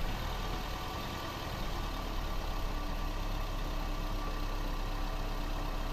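20-series Toyota Prius engine running, with a dense, steady mechanical sound. It comes in suddenly at the start and grows slightly louder, and a faint steady whine joins about two seconds in. This is the abnormal noise whose cause the owner cannot identify.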